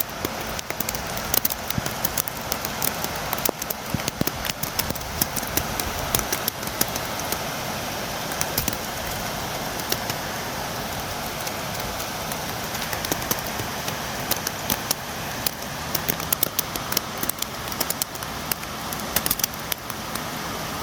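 Steady rain: a continuous hiss with many sharp taps of drops striking close by, scattered irregularly throughout.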